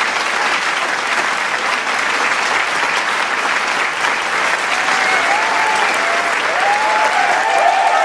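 Large crowd applauding, a dense steady clapping. Cheers and shouts from the crowd join in about five seconds in and grow toward the end.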